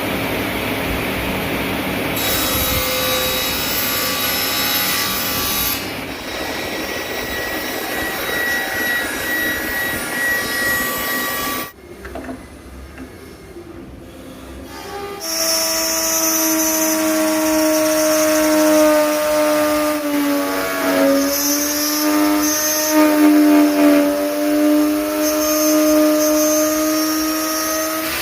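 Power tools working wood: dense cutting noise for about the first twelve seconds, then a short quieter lull. After that a motor runs with a steady, high humming tone whose pitch dips briefly a few times.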